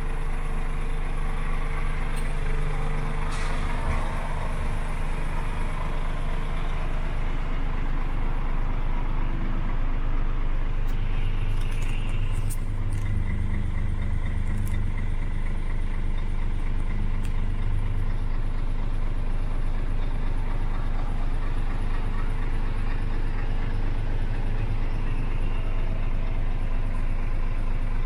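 Scania G410 truck's diesel engine idling steadily, with a low, even hum that swells slightly in the middle.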